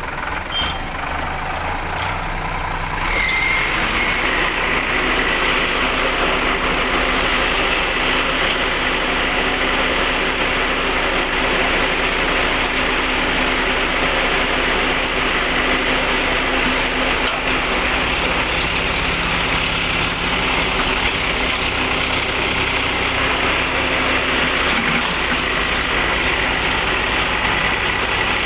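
Heavy diesel machinery engine running steadily. About three seconds in it gets louder and holds a harder working note, with a thin steady whine running over it.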